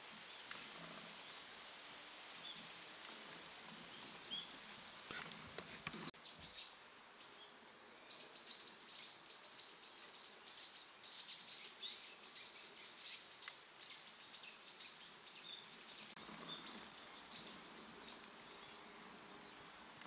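Birds: a fast, irregular run of short, high chirps or ticks, starting about six seconds in and dying away near the end, just after a couple of knocks.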